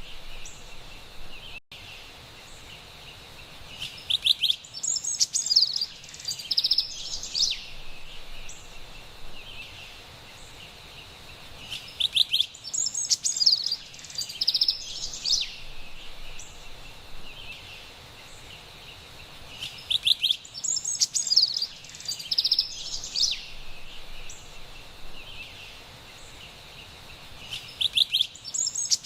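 Carolina wren singing loud rolling phrases of rapidly repeated notes, a song burst about every eight seconds, over a steady background hiss.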